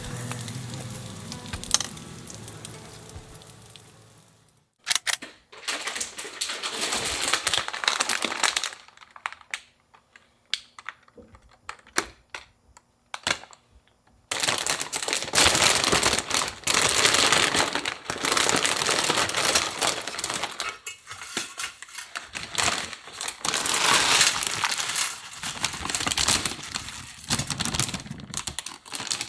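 Food sizzling and crackling in hot oil, a dense steady crackle from about halfway on, with scattered clicks and rustling before it. A song fades out at the start.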